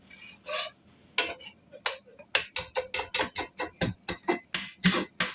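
A cooking utensil clicking rapidly against a pan while eggs are beaten and scrambled, about four to five quick strokes a second, with a brief pause near the start.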